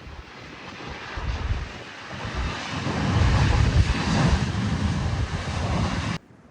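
Airliner passing close on its landing approach, its noise building to a peak about three seconds in, with gusty wind buffeting the microphone. The sound cuts off abruptly near the end.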